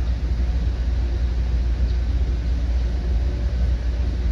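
Commuter train running along the track, heard from inside a passenger car: a steady low rumble of wheels and rails with an even noise above it.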